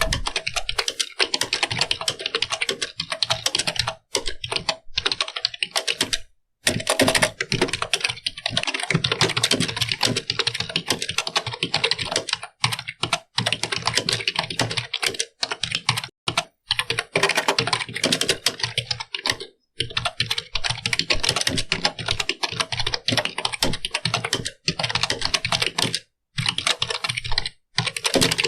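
Computer keyboard being typed on rapidly: a dense, continuous stream of key clicks, broken by a few brief pauses, around six seconds in, near twenty seconds and again near the end.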